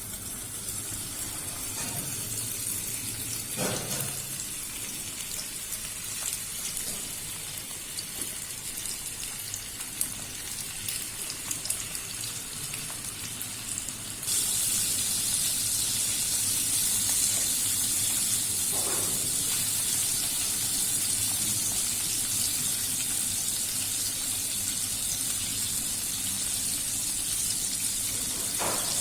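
Pieces of carp, rubbed with turmeric, chilli and salt, frying in hot oil with a steady sizzling hiss. The sizzle gets suddenly louder about halfway through. A few light knocks of a cooking utensil against the pan come through.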